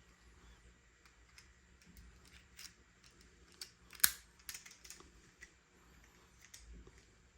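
Scattered sharp plastic clicks and snaps from a spring airsoft toy pistol being handled, with a quick cluster of them about four seconds in, the loudest among them.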